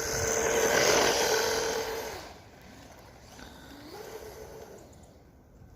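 Hobbystar 550 brushless motor of a Traxxas Rustler 4x4 RC car whining under throttle, with the hiss of its paddle tires spinning in snow, loudest for the first two seconds. A shorter, quieter burst of throttle with a rising whine comes about four seconds in.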